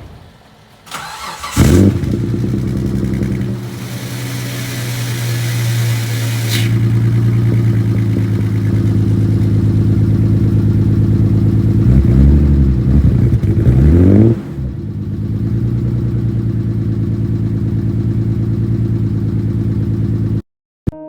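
Twin-turbo engine in an engine-swapped Mitsubishi Pajero, cranked and starting about two seconds in, then running steadily. It is revved twice, about twelve seconds in, then settles back to a steady idle before cutting off suddenly near the end.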